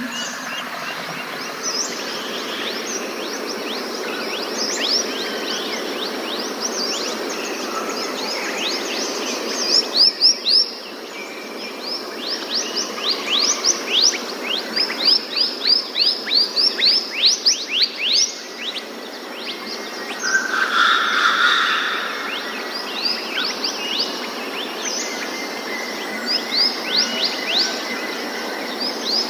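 Forest birds singing over a steady hum of insects: one bird repeats quick, high notes that drop sharply in pitch, several a second, in long runs through the middle and again near the end.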